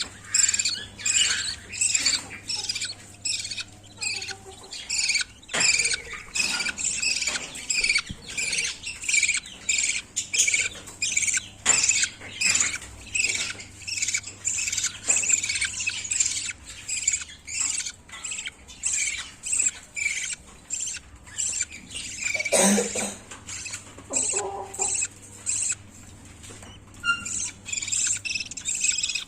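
Budgerigar chicks giving rapid, repeated high chirping calls, about two to three a second and without a break: the begging calls of nestlings being fed by their mother.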